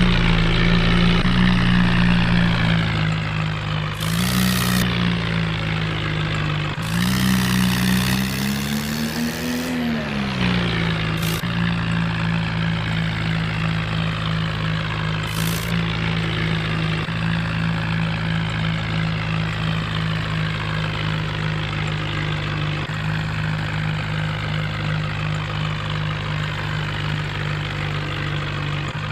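Tractor engine running steadily at idle, its pitch rising and falling once about a third of the way in. Several short hissing bursts come over it, the longest about 7 to 10 seconds in.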